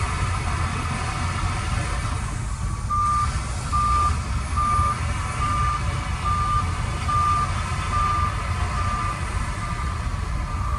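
Reversing alarm of a heavy machine beeping in a steady even rhythm, about one beep every three quarters of a second, starting about three seconds in, over the engine's steady low running.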